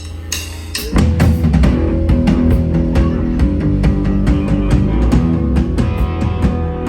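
Live rock band starting a song: a quieter guitar opening, then the full band with drum kit, electric guitar and bass comes in loud about a second in and plays on with a steady beat.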